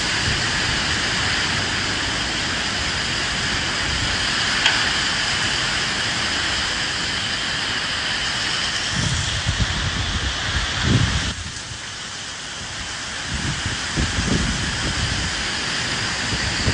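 Steady rain falling with gusts of wind, and low rumbles that swell and fade several times. The rain briefly thins about eleven seconds in.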